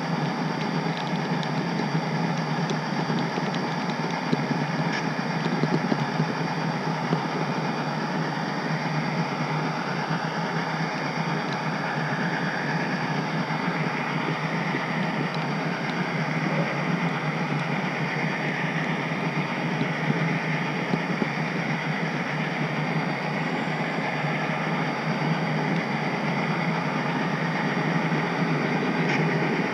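HO scale model train running on its track, a steady mechanical rumble and whir heard close up, with a few faint clicks.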